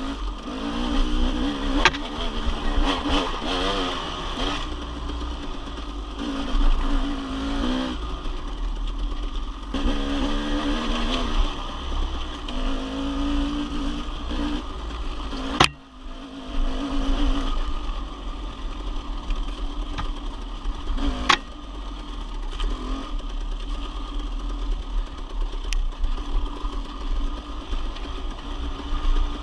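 Dirt bike engine running under way, its pitch rising and falling as the throttle is worked, over a steady low rumble. Two sharp knocks stand out, one about halfway through and another some five seconds later.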